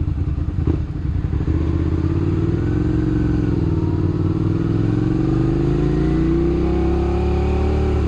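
Motorcycle engine under way, its pitch climbing slowly and steadily as the bike gains speed, over a steady rush of wind and road noise.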